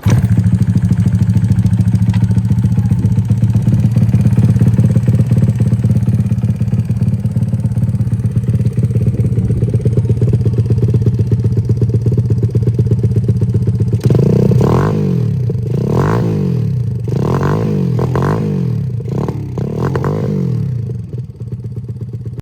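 Honda Chaly's small four-stroke single-cylinder engine idling steadily, then revved in a series of short throttle blips about a second apart from around fourteen seconds in, settling back toward idle near the end.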